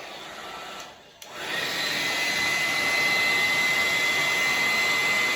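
Hair dryer running: after a brief drop about a second in, it comes on louder and holds steady, an even rush of air with a thin high whine.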